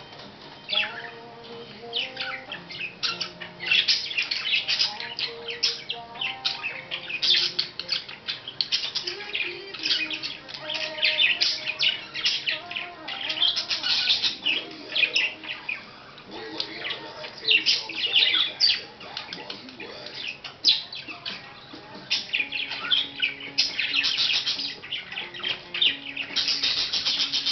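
Budgerigar chattering and warbling, a rapid stream of short high chirps: the contented chatter of a happy budgie.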